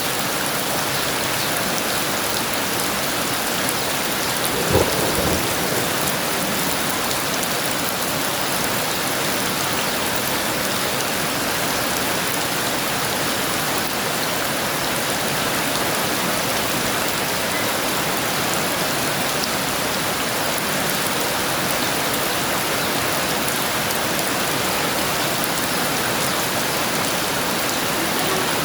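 Heavy rain falling steadily, with a single short crack of thunder about five seconds in.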